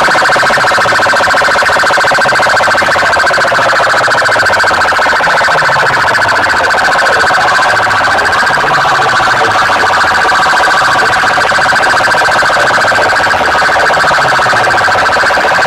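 Huge DJ loudspeaker rig in a sound-box competition blasting a distorted, siren-like electronic track at full volume, steady and unbroken, with a low falling bass sweep repeating about every second and a half.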